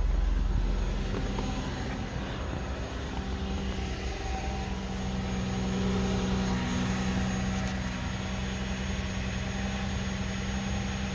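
2007 Lincoln MKX's 3.5-litre V6 idling steadily just after a cold start, heard at the exhaust.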